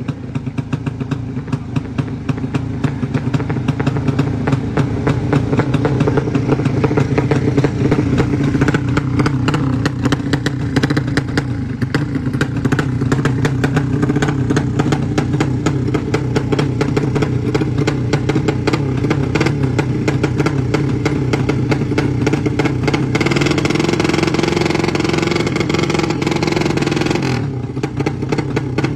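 Tuned racing motorcycle engine with an open exhaust held at high revs, with a fast crackling rattle. The level builds over the first few seconds, and near the end the revs rise higher for a few seconds before dropping back.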